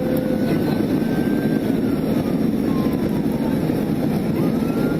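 Steady high-speed road and engine roar inside a police car in pursuit, with a siren faintly wailing, falling slowly and rising again near the end.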